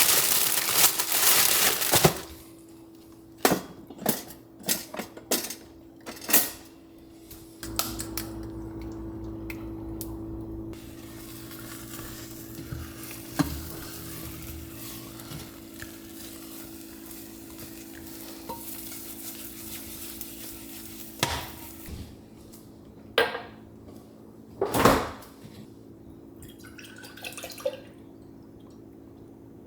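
Dishes and utensils knocking and clinking, a dense clatter in the first two seconds, then scattered separate knocks over a steady low hum.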